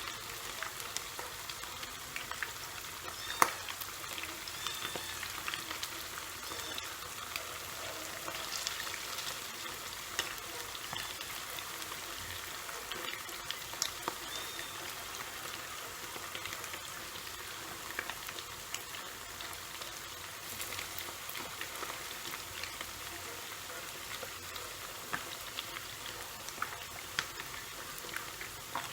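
Chicken legs and wings deep-frying in hot oil: a steady sizzle with scattered sharp pops and crackles, one louder pop a few seconds in.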